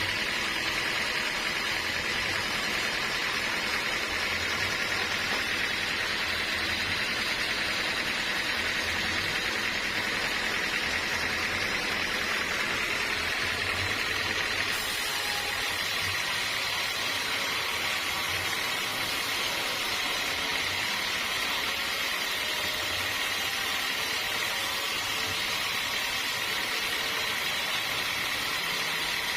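Sawmill saw running steadily, a continuous noisy whine over a low hum. About halfway through, the low hum falls away and the sound changes slightly.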